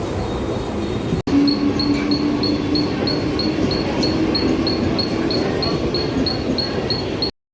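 Mumbai suburban local train running, a steady rumble and rattle. After a brief break about a second in, a steady low hum and a rapid high beeping at about three a second join it, then everything cuts off suddenly near the end.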